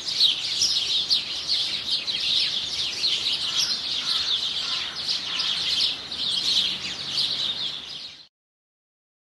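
A chorus of many small birds chirping and twittering all at once, dense overlapping quick high calls, which cuts off suddenly about eight seconds in.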